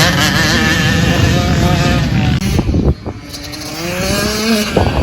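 Dirt bike engine revving, its pitch rising and falling under the throttle. About three seconds in it drops off sharply, then climbs steadily in pitch as it accelerates again.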